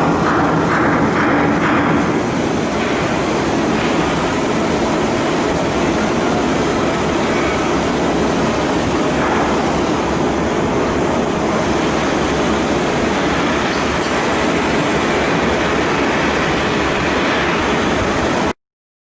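Steady, loud machinery noise, a continuous rushing roar without a clear beat, cutting off suddenly near the end.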